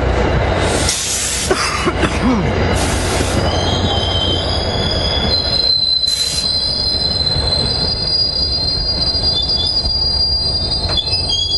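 A commuter train moving slowly along the rails with a steady low rumble and wheels squealing in high, steady tones from about a third of the way in, with a few short bursts of hiss in the first half.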